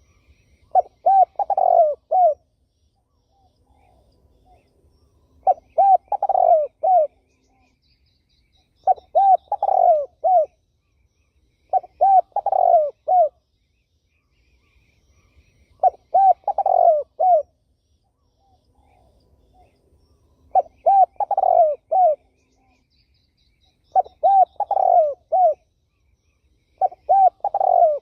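Spotted dove (terkukur) cooing, repeating a short phrase of three or four quick coos every three to four seconds, eight times. Faint small-bird chirps sound between the phrases.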